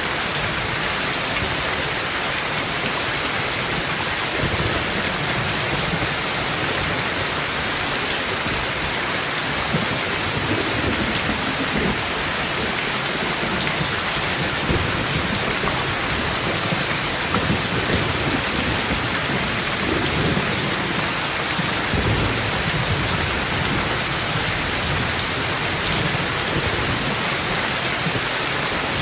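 Heavy rain pouring steadily, with low thunder rumbling now and then, strongest through the middle.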